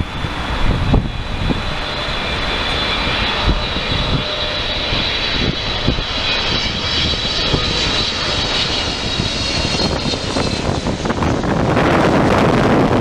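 Jet engines of a wide-body airliner passing close by, a high whine over a broad rumble that grows louder toward the end, with wind buffeting the microphone.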